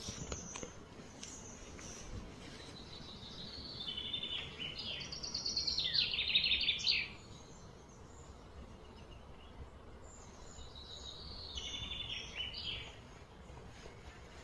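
A bird singing two phrases of fast, repeated high notes over a steady background hum. The first phrase is louder and ends abruptly; the second, fainter one comes near the end.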